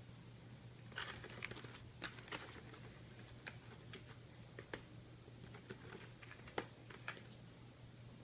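Light, irregular taps, clicks and scratches of a kitten playing with a cat house toy, starting about a second in and stopping a little before the end, over a faint steady hum.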